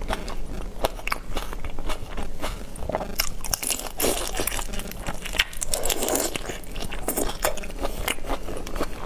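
Biting and chewing whole prawns in their shells: a run of crisp crunches and crackles, thickest around four seconds in.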